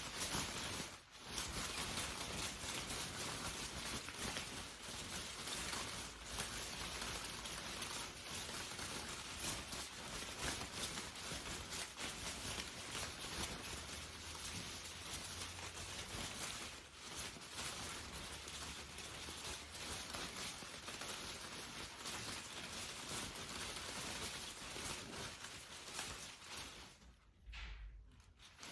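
Rain falling steadily, a dense patter of drops. The sound dips out briefly about a second in and again near the end.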